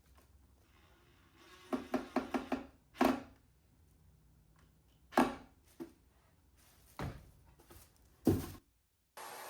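A series of sharp knocks and taps: a quick run of five about two seconds in, then single knocks at uneven gaps. It cuts off, and near the end a steady hiss starts.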